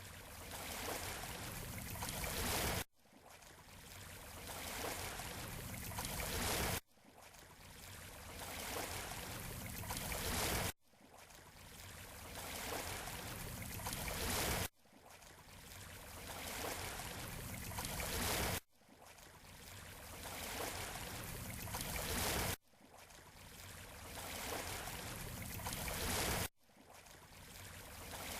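Shoreline surf noise in a short repeating loop: each pass swells from quiet to a peak over about four seconds, then cuts off abruptly and starts again.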